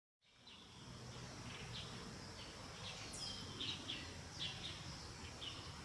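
Quiet forest ambience fading in from silence: small birds chirping in short repeated calls, with one quick falling whistle about three seconds in, over a steady faint high hiss and a low rumble.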